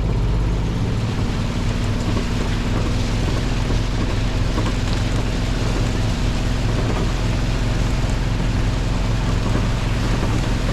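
Small vehicle engine running steadily while driving, with a continuous hiss of wind and motion noise over it.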